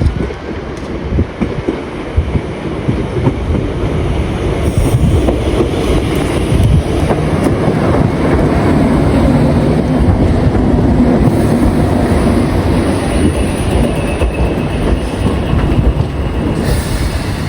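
A train running past on the line, its rumble building over the first few seconds and then holding steady and loud.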